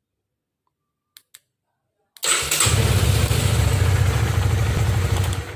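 Honda CB150R's single-cylinder engine started on the electric starter about two seconds in, after a couple of faint clicks: it catches at once and settles into a steady idle. It fires straight away with no injection-delay pause, as it does before the delay module is fitted.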